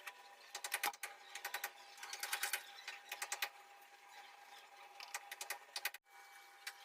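Fast runs of mechanical-sounding clicks, several a second in bursts, over a faint steady hum, cutting off abruptly about six seconds in.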